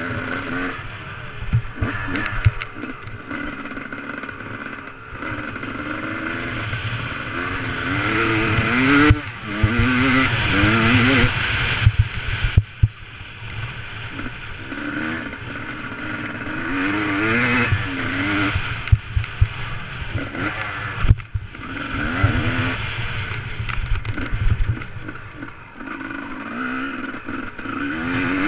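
Motocross motorcycle engine revving up and dropping back over and over, its pitch rising and falling every second or two, as in riding a track. Scattered low thumps and a steady rushing noise run along with it.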